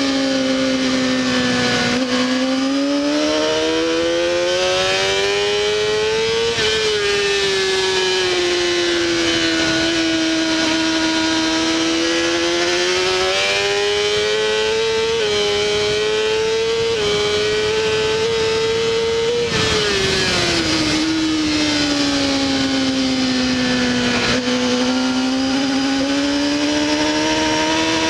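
Onboard sound of a Honda CBR600RR's inline-four engine at race pace. The revs climb, drop at upshifts, fall away as the bike slows for corners, and build again.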